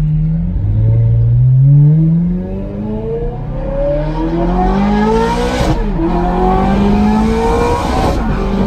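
Ferrari F430's 4.3-litre V8 accelerating hard, heard from inside the cabin. Its pitch climbs steadily and drops sharply at each of three upshifts, with wind hiss rising as the car gains speed.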